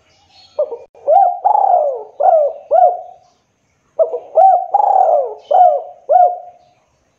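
Spotted dove (tekukur) cooing: two phrases of about five hooked, throaty coos each, with a short pause between them.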